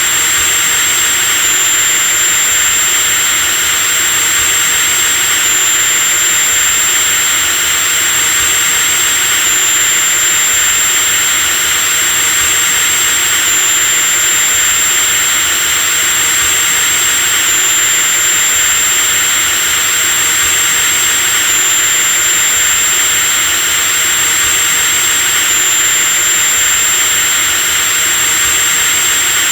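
Power drill running continuously at a steady speed: a dense, even rushing noise with a thin high whine on top that shifts slightly in pitch about every four seconds.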